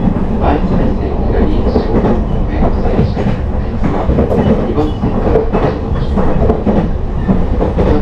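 Passenger train running on the rails, heard from inside the carriage: a steady low rumble with irregular clicks of the wheels over the track.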